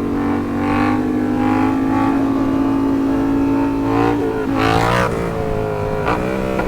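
Sportbike engine running at a steady pitch for about four seconds, then dropping and climbing again, with a short rev near the end.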